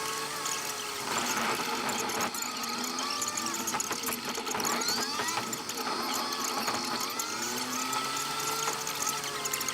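Car engine making odd squealing and whining noises, several thin tones wandering up and down in pitch, with scattered rattling clicks.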